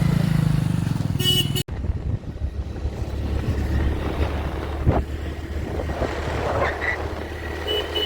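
A motor vehicle's engine running steadily with a low hum, broken by a sudden cut about a second and a half in, with a few brief knocks and clatters later.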